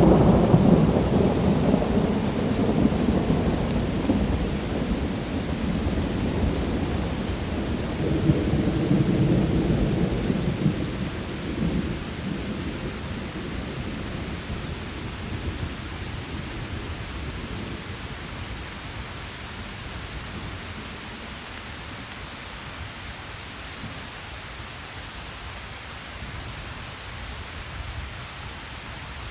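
Thunder rumbling over steady rainfall, swelling again about eight seconds in, then dying away. The steady hiss of rain remains.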